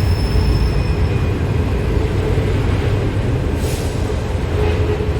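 Sydney Trains electric passenger train running at the platform, a loud steady rumble with a thin high tone that stops about a second in and a brief hiss a little past halfway.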